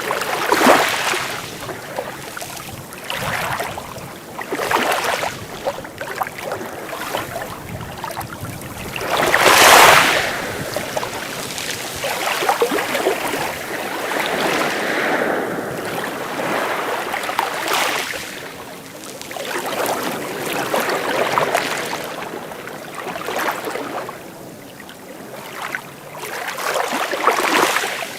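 Sea waves washing in, a fresh surge every two to three seconds, the loudest about ten seconds in.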